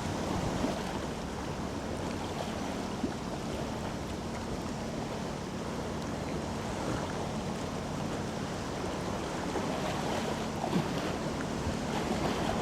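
Low, steady engine drone of a passing container ship, mixed with wind buffeting the microphone and the wash of water.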